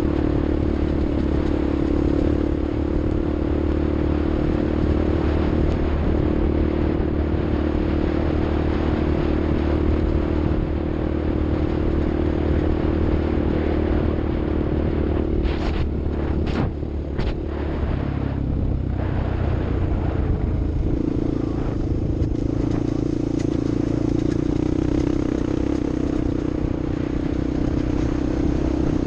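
Off-road vehicle engine running steadily under way, its note shifting about two thirds of the way in, with a few sharp knocks and clatter a little before that.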